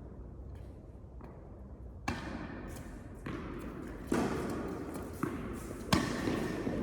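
Tennis ball impacts during an indoor rally: about five sharp pops of racket hits and bounces at irregular intervals, starting about two seconds in, each with a short echo of the hall, the loudest near the end.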